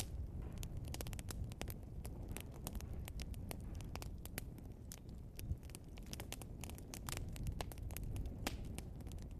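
Burning log crackling and popping: many sharp irregular crackles and pops over a steady low rush of the fire.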